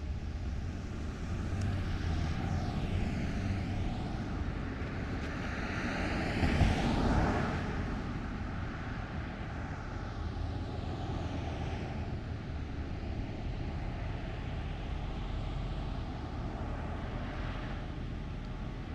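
A vehicle passing by: a rushing noise that swells to a peak about seven seconds in and then fades away over several seconds, over steady outdoor street background.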